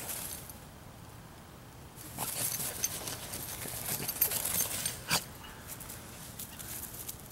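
A Dachshund puppy and an adult Puggle scuffling in play, with a run of quick rustling and pattering paws that starts about two seconds in and a sharp click near the five-second mark.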